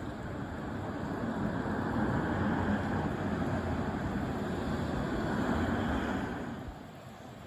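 A passing vehicle: broad rumbling noise that swells over the first couple of seconds and fades away near the end.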